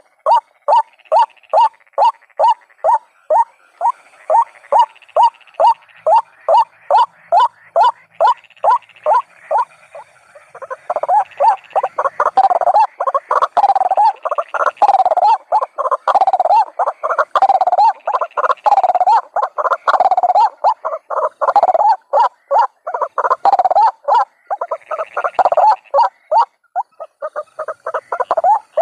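White-breasted waterhen calling: a fast, even series of short, croaking notes, about two or three a second. About a third of the way in, a second, louder series of calls overlaps it.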